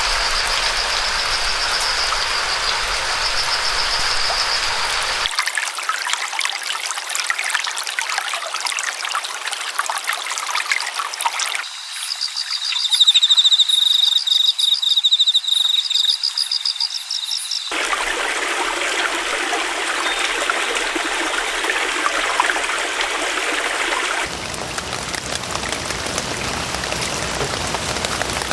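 Running stream water trickling and splashing, heard as several spliced recordings whose sound changes abruptly every few seconds. A high, rapidly pulsing call sounds over the water near the start, and louder for several seconds in the middle.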